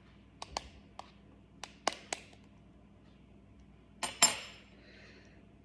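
Hard-boiled egg tapped against a hard surface to crack its shell: about six sharp taps in the first two and a half seconds, then a louder crack with a brief crunch about four seconds in.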